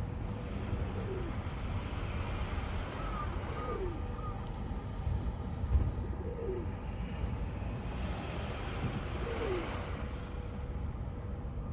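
Steady low rumble with a bird's short falling calls repeating every two to three seconds, four times, and a quick run of three higher chirps about three seconds in. A brief low thump comes near the middle.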